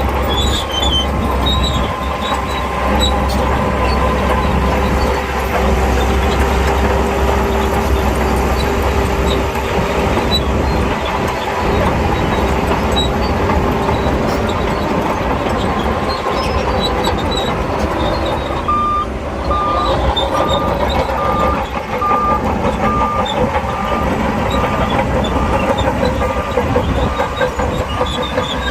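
Diesel engines of heavy earthmoving machinery running steadily under work. About two-thirds of the way in, a reversing alarm starts beeping about once a second.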